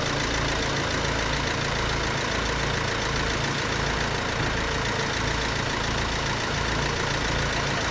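A motor vehicle's engine idling steadily, with a low throb that pulses a little under once a second.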